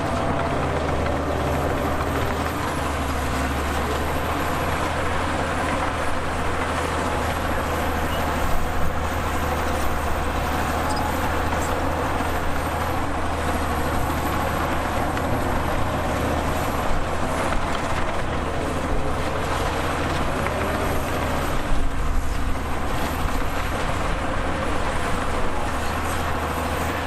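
Heavy diesel earthmoving machinery running steadily, with a deep engine rumble and a wavering engine note, and a couple of brief louder knocks.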